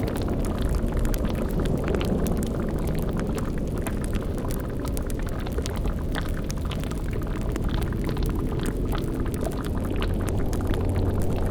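Layered spooky ambience: a bubbling, boiling cauldron with many small pops and crackles over a steady low rumble, the low drone swelling slightly near the end.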